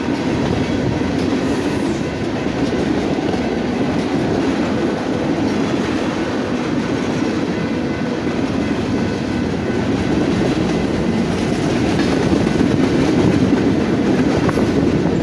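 Freight cars of a long BNSF train rolling past at speed: a steady noise of steel wheels running on the rails, growing a little louder near the end.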